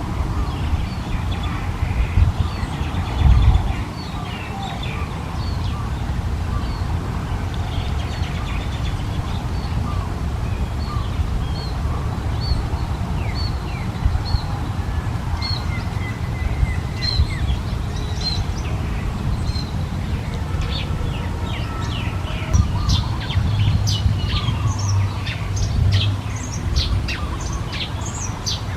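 Small birds chirping: many short, high chirps and quick falling notes, growing busier and denser in the last third, over a steady low rumble.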